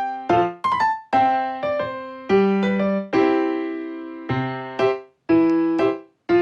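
Background music: piano or electric keyboard playing chords, each struck note fading away, with two brief gaps near the end.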